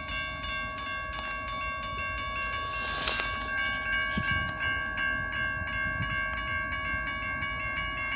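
Railroad crossing bell ringing steadily, about two strokes a second, over the low rumble of a train on the tracks. A brief hiss comes about three seconds in.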